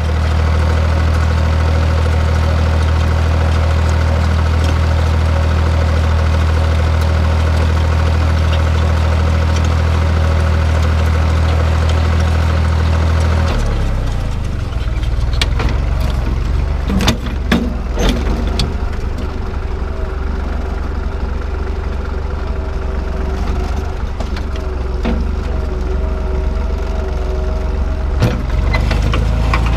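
Tractor engine running steadily under load while cultivating. About 13 seconds in the engine note changes to a lower, rougher running with scattered knocks and clanks.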